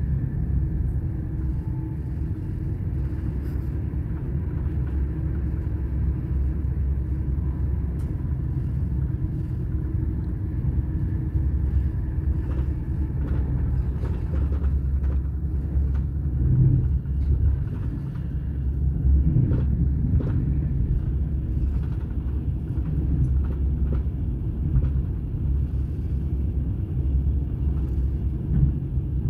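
Interior ride noise of a Stadler RABe 511 KISS double-deck electric multiple unit running at speed: a steady low rumble of wheels on rail. Scattered clicks and knocks come through about halfway through.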